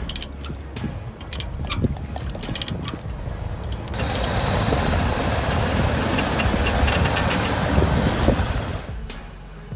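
A heavy vehicle's engine running, with scattered clicks and knocks over the first few seconds. About four seconds in the sound changes to a louder, even engine noise with a faint high whine, which drops off near the end.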